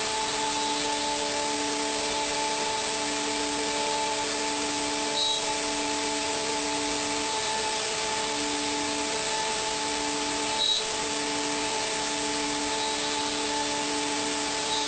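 A machine running steadily: a whir with several held tones, broken by two short sharp sounds about five seconds apart.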